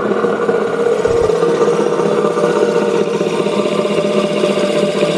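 Conquest 20-inch disc sander's 1.5 hp single-phase motor running steadily with an even hum, with a short low thump about a second in.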